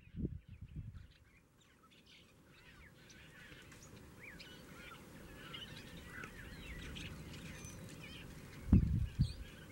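Wild birds calling: many short, rising and falling chirps and squawks that set in about three seconds in and go on over a faint outdoor hiss. Short low thumps come just after the start and again near the end.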